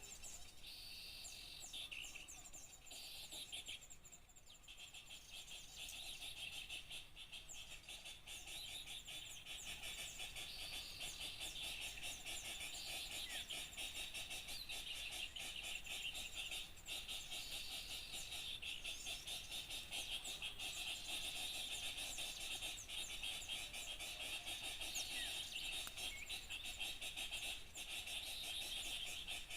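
Dense, unbroken chatter of many small birds chirping and twittering at once: a bird-lure recording used to draw small songbirds in.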